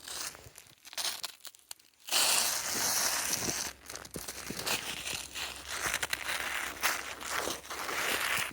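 Snow and ice crunching and crackling as they are stripped by hand off weighed-down electric fence tape. A few faint clicks come first, then a dense, steady crackle starts about two seconds in.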